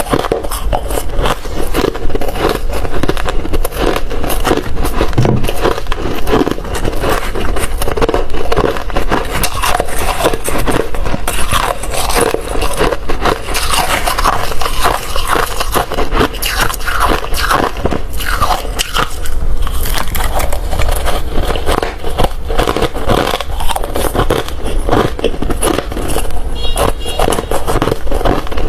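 Hard ice being bitten and chewed, a dense run of loud, irregular crunching cracks.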